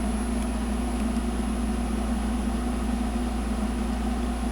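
Steady low machine hum with no change in pitch or level, with a faint, thin high-pitched tone above it.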